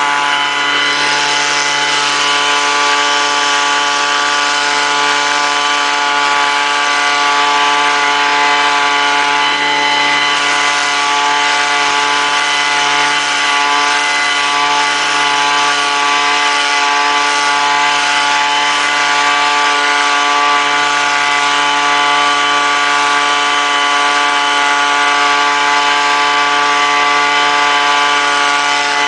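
Gas leaf blower's small engine running steadily at a constant high speed while blowing leaves.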